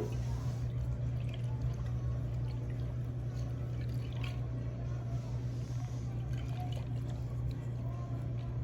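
Water swirling faintly inside a tornado jar after being spun, with a few small ticks, over a steady low hum.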